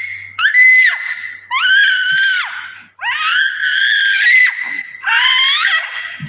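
Six-month-old baby squealing very loudly with happiness: four long, high-pitched squeals, each rising at the start and dropping at the end, with short breaths between.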